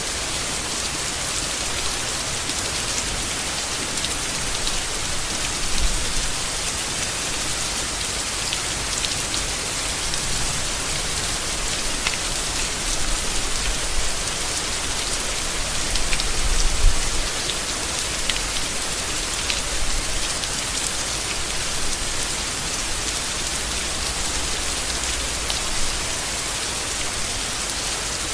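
Steady rain falling on leaves, a dense even patter of drops. A couple of brief low thumps stand out, about six seconds in and past the middle.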